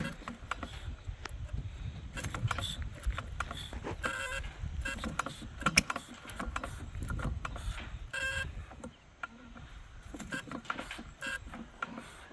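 Single-cylinder engine built after Henry Ford's 1893 design being started: uneven knocks and clicks as it turns over and fires irregularly, almost catching without settling into a run. It dies down about nine seconds in.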